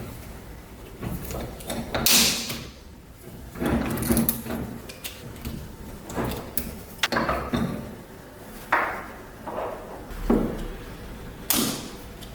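Workshop handling sounds from an antique hand-crank grinder being worked on: a string of separate knocks, clanks and short scrapes at uneven intervals, with two sharp hissing scrapes, one about two seconds in and one near the end.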